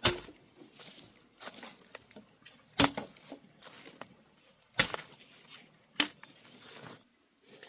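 Four sharp chopping strikes, a second or two apart, with lighter rustling and cracking between them.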